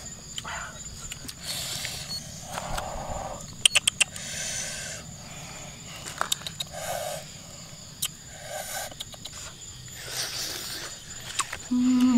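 People eating grilled chicken by hand: chewing, lip-smacking and sucking at the meat, with a quick run of sharp clicks about four seconds in and a short hummed 'mm' near the end. A steady high insect whine sits behind it.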